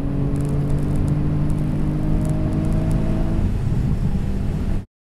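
Turbocharged Infiniti G37's 3.7-litre V6 heard from inside the cabin, pulling hard at full throttle down the drag strip with a steady high-rev note. The sound cuts off suddenly near the end.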